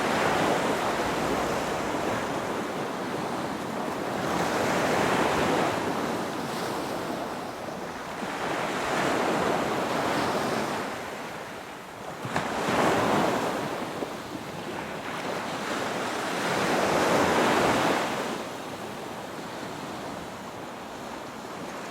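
Sea waves washing in, the wash swelling and fading about every four seconds.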